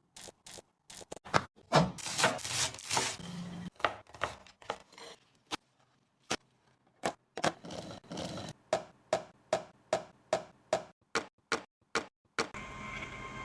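Kitchen items being handled: a quick cluster of clicks, knocks and rustles, then scattered sharp clicks, then an even run of knocks about two or three a second.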